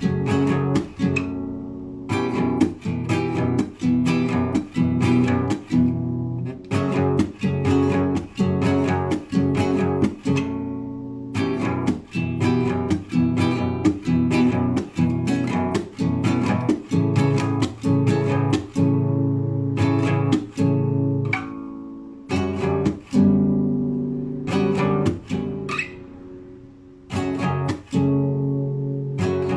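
Solo guitar improvising: chords struck and plucked one after another, each ringing out and fading, with a few brief pauses between phrases.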